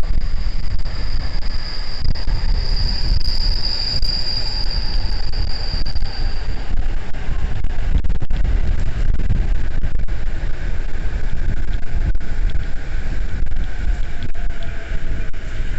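Saikyo Line electric train at the platform, heard through strong wind buffeting the microphone: a high steady whine that fades out about six seconds in, then a lower whine from about ten seconds in.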